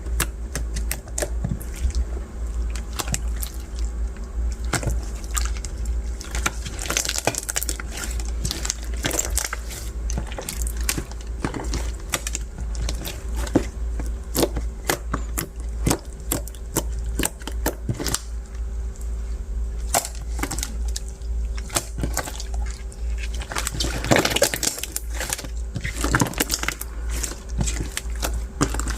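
Translucent bead slime being pressed and squeezed by hand, with a dense, irregular crackle of beads clicking and popping in the wet slime. A steady low hum runs underneath.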